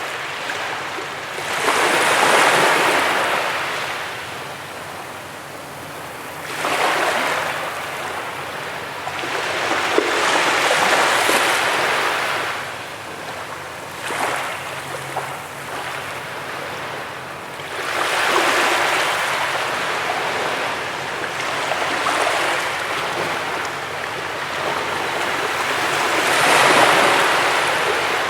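Ocean waves breaking on a beach. About five surges swell up and wash back over the span, with a softer rush of water in between.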